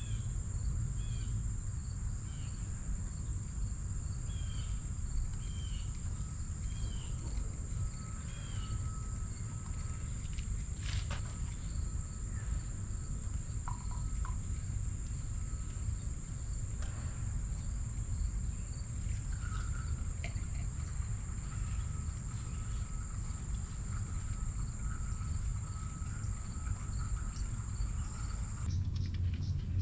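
Crickets trilling steadily in one high, unbroken tone that cuts off just before the end, over a constant low rumble of outdoor background noise. A few faint short chirps come in the first ten seconds or so.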